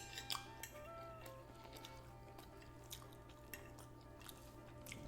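Faint background music with steady held notes, with scattered soft clicks of eating and cutlery.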